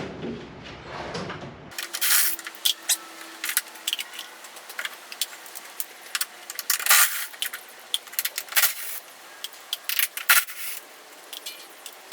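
Irregular metallic clinks and rattles of hand tools and loose screws and bolts being handled while a fender's fasteners are undone.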